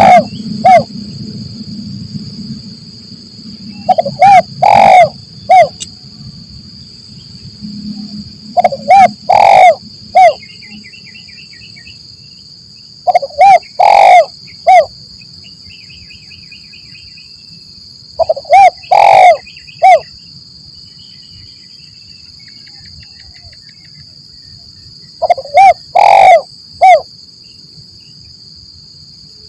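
Spotted dove (tekukur) cooing: six phrases, each a few short coos around one longer, louder coo, repeated about every four to five seconds. A steady high insect drone runs behind, with faint small-bird chirps between phrases.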